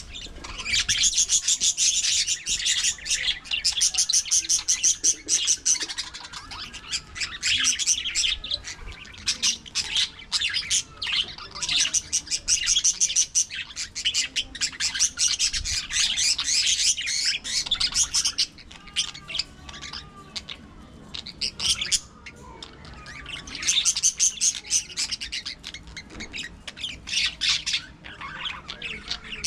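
A flock of budgerigars chattering and warbling: dense runs of rapid chirps, with brief lulls about two-thirds of the way through and near the end.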